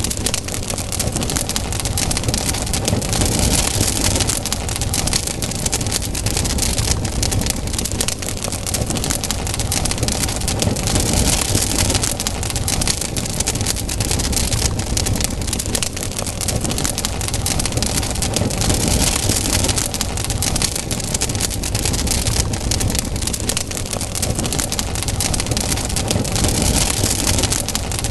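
Campfire burning: a dense, steady crackle of many small pops over a low rumble.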